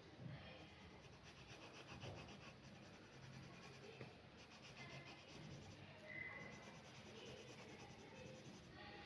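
Faint scratching of a pen on paper in runs of quick, short strokes.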